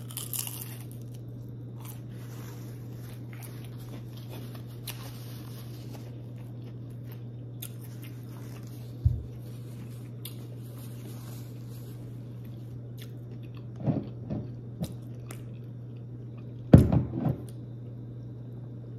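A person bites into a piece of crisp fried whiting fish, then chews it with small crunching sounds over a steady low hum. A few louder thumps come in the second half, the biggest near the end.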